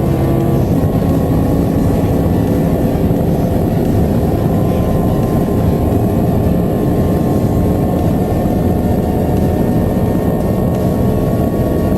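A high-performance car's engine under full-throttle acceleration at high speed. There is a gear change about half a second in, after which the revs climb slowly over a constant rush of wind and tyre noise.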